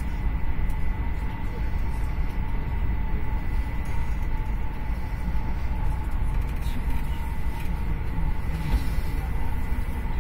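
Steady running rumble of a moving passenger train, heard from inside the carriage, with a faint steady high whine over it.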